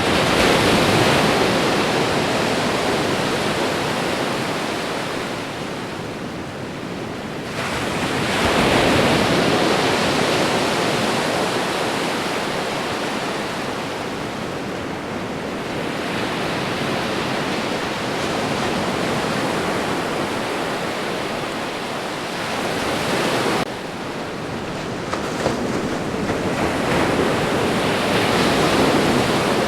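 Ocean surf: waves breaking and washing ashore in a continuous rushing noise that swells and eases every several seconds, loudest about a second in, around nine seconds in, and again near the end.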